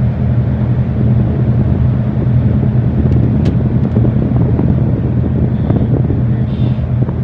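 A tugboat's diesel engines running with a steady low drone, heard from on board, with a faint click about three and a half seconds in.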